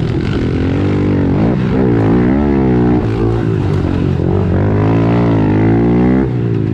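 Small 110cc four-stroke pit bike engines racing, several at once, their pitch rising and falling with each throttle change and shift. The sound changes abruptly near the end.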